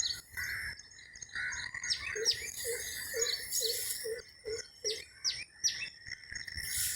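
Birds calling at dawn: repeated short, falling, high chirps, with a run of about seven low hooting notes, roughly two a second, in the middle. A steady high tone runs underneath throughout.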